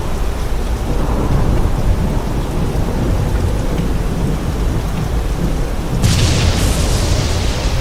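Steady heavy rain with a low, rolling thunder rumble underneath. About six seconds in, a sharper crackling burst of thunder breaks over it.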